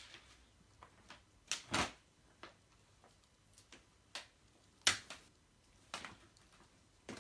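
Scattered light clicks and knocks at irregular intervals, the sharpest about five seconds in.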